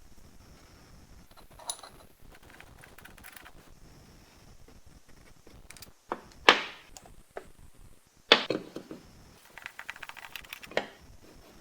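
Metal parts of an old PanaVise knocking and clinking as it is handled: two sharp knocks about six and a half and eight seconds in, with short runs of rattling clicks between.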